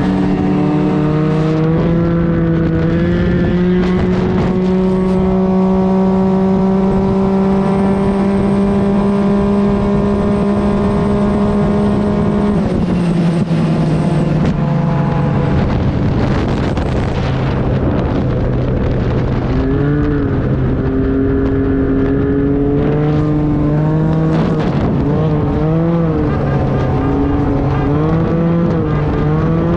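Engine of a Can-Am three-wheeled motorcycle running at highway speed, its pitch climbing slowly and steadily for about twelve seconds as it accelerates, then dropping off suddenly. In the second half the revs rise and fall in short repeated swings.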